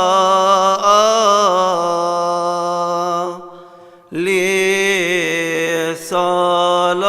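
Solo male voice chanting a Coptic Orthodox hymn unaccompanied, drawing out long melismatic notes that waver in pitch. A phrase ends about three seconds in, and after a short breath the next phrase begins.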